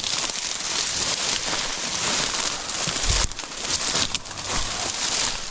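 Dry grass and brush rustling and crackling steadily as someone pushes on foot through thick cover, with a few heavier footfalls.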